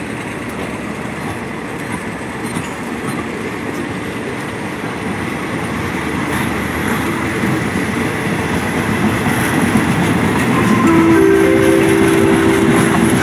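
Passenger coaches of a train rolling past close by, wheels clattering and rumbling over the rails and growing louder. Near the end a horn sounds one steady blast of about two seconds.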